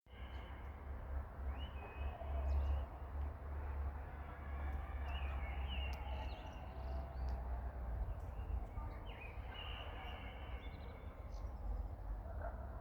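Birds chirping now and then, a few short sweeping calls, over a steady low rumble.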